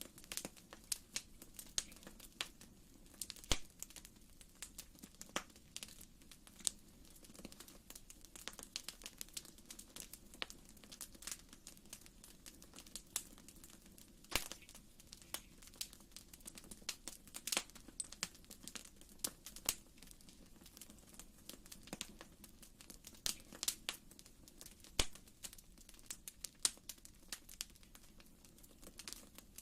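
Fireplace fire crackling: irregular small pops and snaps, many each second, over a faint steady background.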